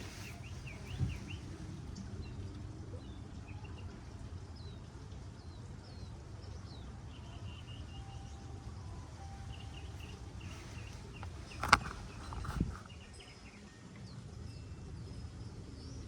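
Small birds chirping over a low steady background rumble, with a sharp click about twelve seconds in and a duller knock just after it.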